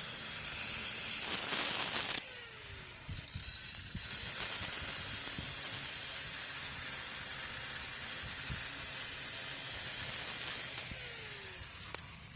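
Power cutting tool running steadily as it cuts through a steel U-bolt, a loud high hiss that shifts in level a couple of times and fades at the end.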